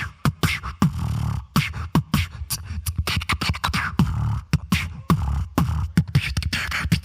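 Solo human beatboxing: a quick run of sharp clicks and snare-like hits over held bass tones.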